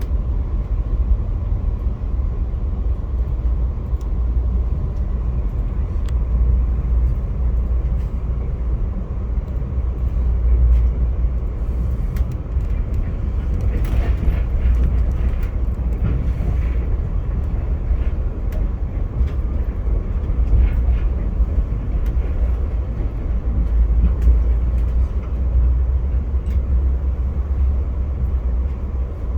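Via Rail passenger train running on the tracks, heard from aboard: a steady low rumble with occasional faint clicks.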